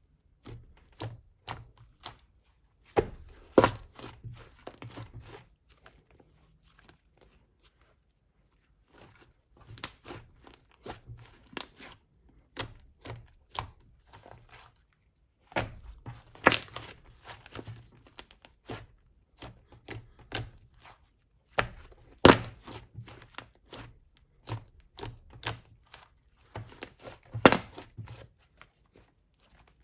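Egg soufflé slime being squeezed, stretched and pressed by hand. It gives clusters of sharp crackles and pops, with a pause of a few seconds a quarter of the way in and a shorter one about halfway.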